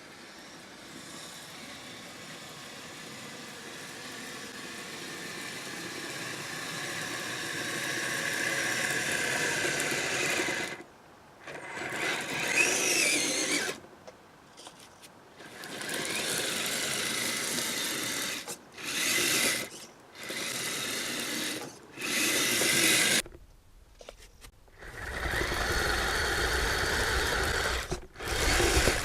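Kyosho Blizzard SR RC snow vehicle's electric motor and tracks whirring, building steadily over the first ten seconds, then running in short bursts of throttle of one to three seconds with brief stops between.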